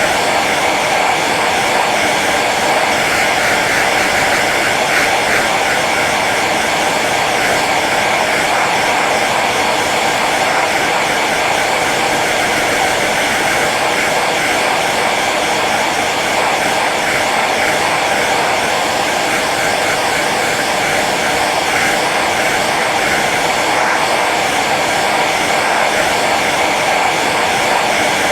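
Hair dryer running steadily on its low setting, a constant whooshing blow of air with a motor hum underneath.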